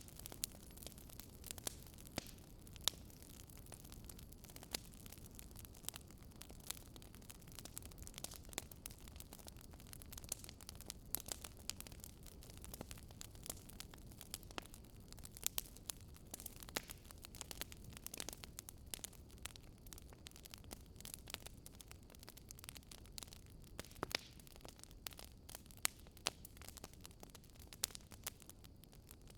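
Wood fire burning, with frequent irregular sharp crackles and pops over a low steady hiss.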